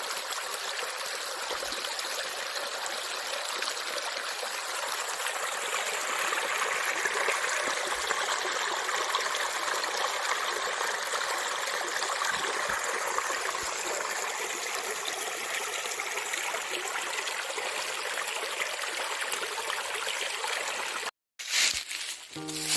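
Stream water running steadily. It cuts off suddenly near the end, followed by a brief loud sound and the start of music.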